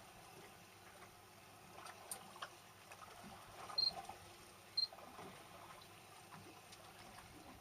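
Quiet background on a small fishing boat with scattered light clicks and knocks, and two short high-pitched beeps about a second apart near the middle.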